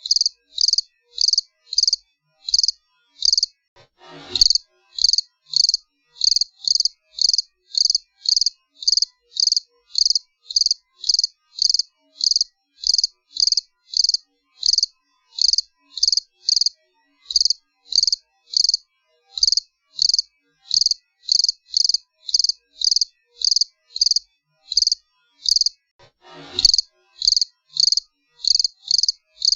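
A cricket chirping steadily in short, high-pitched chirps, about two a second with silence between them. Twice, about four seconds in and again near the end, a brief noise sweeps down from high to low.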